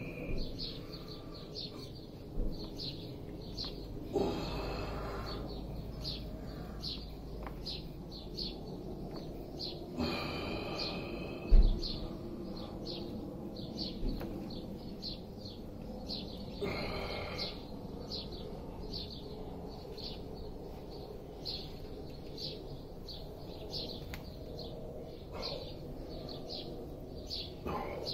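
A small bird chirping over and over, about two short high chirps a second, with other, fuller bird calls now and then. A single sudden thump about halfway through.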